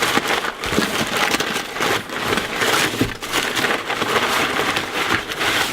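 Packaging being handled and unwrapped: a continuous irregular crinkling and crackling of wrapping material.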